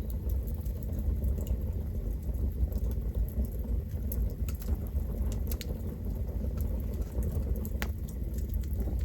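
Wood campfire burning with a steady low rumble, and sharp crackles and pops every second or so, the loudest pop about eight seconds in.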